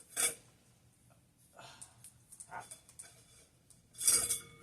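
Sudden clicks, scrapes and knocks from the metal parts of a ceiling fan being handled while it is switched into reverse. The loudest knock comes near the end and leaves a faint metallic ring.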